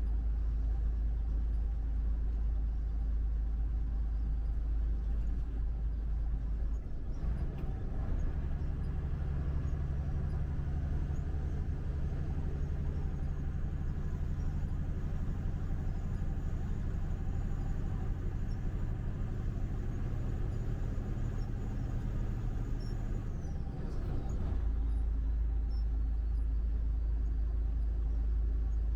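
Truck driving on the highway: a steady low rumble of engine and road noise. From about seven seconds in, a steadier engine hum with a clearer pitch takes over, and it gives way to the deeper rumble again near the end.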